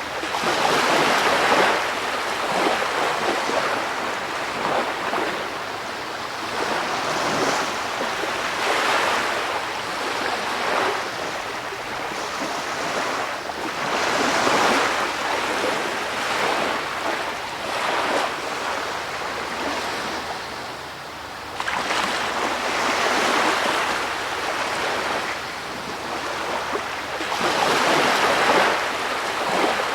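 Ocean surf: a rushing wash of waves that swells and fades again every five to seven seconds.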